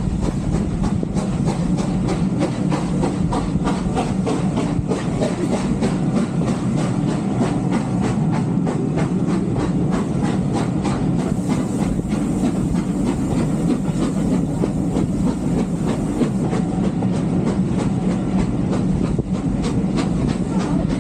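Steam-hauled heritage train running along the line, heard from on board: a steady rumble of the carriages with rapid clicking of the wheels over the rails.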